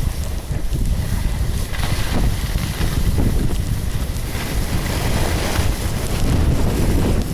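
Strong wind buffeting the microphone: a loud, steady rumble that swells and eases every second or two.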